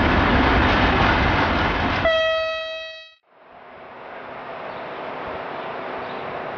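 Loaded freight wagons rolling past behind a diesel shunting locomotive, a steady loud rumble. About two seconds in, a train horn sounds one steady note for about a second as the rumble drops away. After a brief gap there is the quieter steady running noise of an electric locomotive coming in along the platform.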